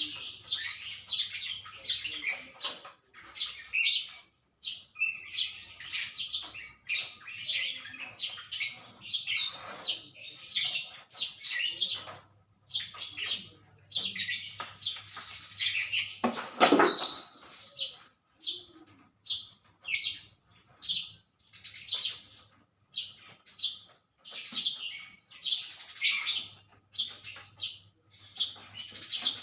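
Small birds chirping continuously in rapid short, high notes, with one louder, fuller noise about seventeen seconds in.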